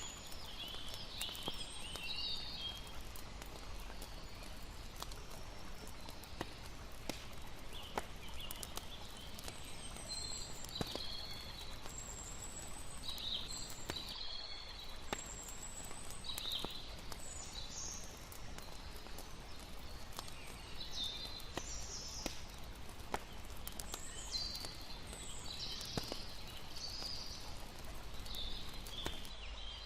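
Layered night ambience: a steady wash of lapping water under the sharp, scattered pops of a crackling campfire. Many short, high chirping calls come and go throughout. The background drops out briefly about halfway through.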